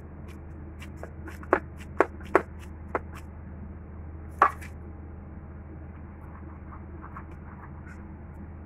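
Kitchen utensils tapping and knocking: a handful of short, sharp knocks spread over a few seconds, over a steady low hum.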